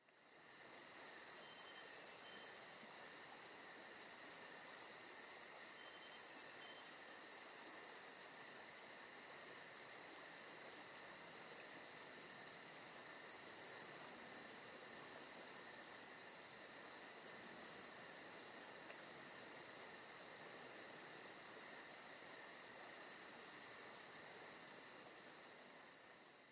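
Faint, steady chorus of night insects, crickets by the sound of it, with high-pitched continuous chirring and a fast, even pulse.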